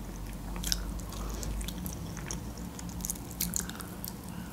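Close-miked chewing of a chicken wing, scattered soft wet clicks and crackles of the mouth and food. Near the end the wing is bitten again.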